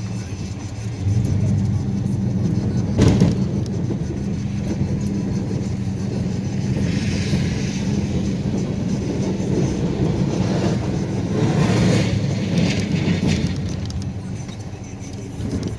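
Plow truck's engine running steadily, with a sharp knock about three seconds in and a stretch of hissing noise through the middle.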